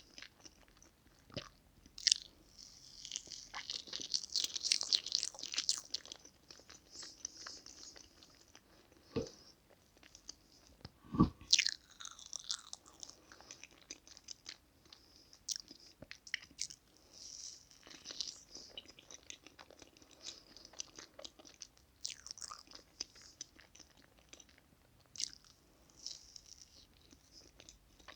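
Close-miked eating of soft chocolate cake: wet chewing and mouth clicks that come and go, with a few sharp knocks, the loudest about eleven seconds in.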